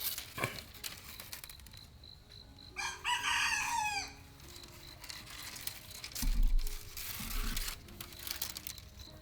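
A rooster crows once, about three seconds in, a call of a little over a second that drops in pitch at its end. A little later come two dull low thumps, the loudest sounds here.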